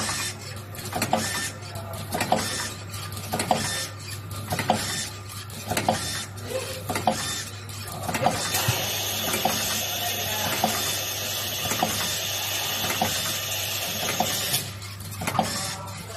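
Water-soluble PVA pod-making machine running: a steady motor hum with a sharp clack about every half second or so from its cycling mechanism. A steady high hiss joins in about halfway through and stops about a second and a half before the end.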